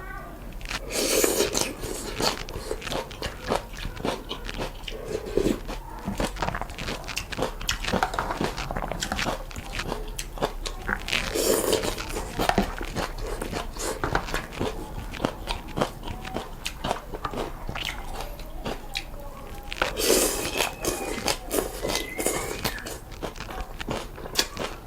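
Close-up eating sounds of noodles and soup: wet chewing and mouth clicks throughout, with three longer slurps about a second in, near the middle and near the end.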